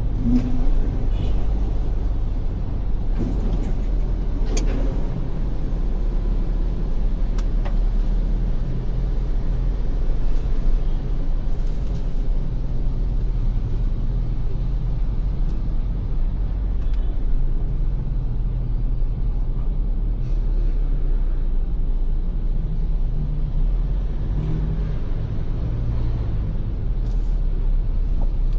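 Ford Everest SUV on the move, a steady low rumble of engine and road noise, with a few brief sharp ticks in the first few seconds.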